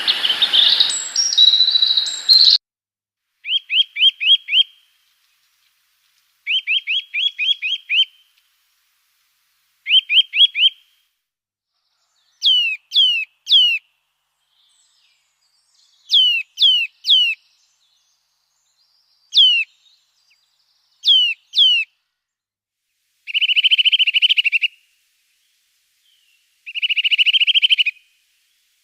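A small songbird singing in separate phrases with clean silence between them: quick runs of short falling notes, then pairs and triplets of long whistles sliding down in pitch, and near the end buzzy trills. A noisier background sound stops abruptly about two and a half seconds in.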